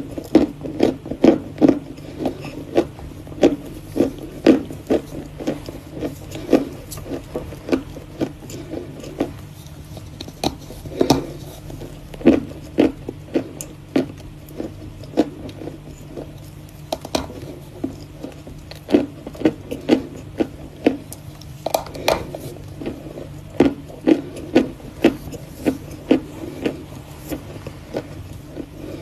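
Close-up crunching and chewing of Volokonovka chalk, sharp crunches about one to two a second in clusters with short pauses, over a faint steady hum.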